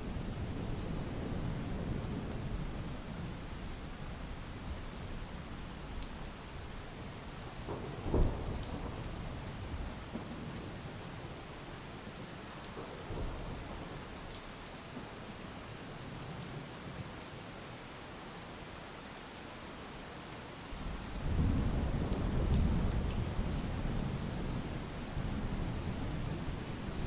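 Steady rain falling, with thunder: a low rumble at the start, a sharp crack of thunder about eight seconds in, and a long, heavy rumble rolling in about three quarters of the way through.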